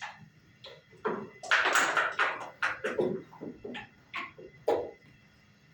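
Backgammon dice tumbling and bouncing onto the board, a quick rattle of hard clicks about a second and a half in, followed by single sharp clacks of checkers being set down on the board.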